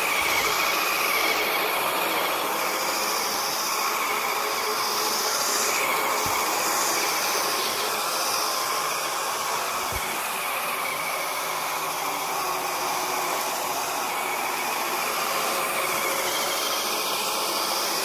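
First-generation iRobot Roomba robot vacuum running: a steady whirring drone from its vacuum motor and brushes as it drives along cleaning.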